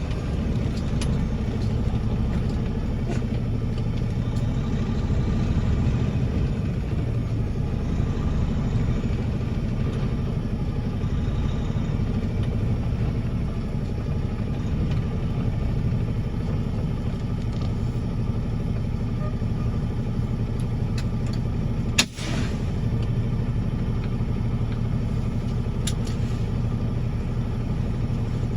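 Semi truck's diesel engine running steadily at low speed. A single sharp click about 22 seconds in.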